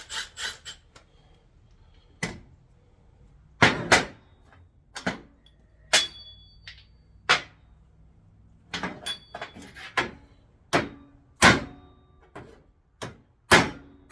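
Irregular sharp metal knocks and clanks, about fifteen spread unevenly, a few ringing briefly: a hammer and tools striking steel suspension parts during work on a control arm and its bushings.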